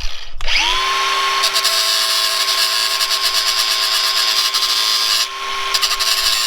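A power tool fitted with a cutting disc spins up about half a second in and cuts through motorcycle drive-chain links, a steady high whine under loud hissing grinding noise. It eases briefly about five seconds in, then bites into the chain again.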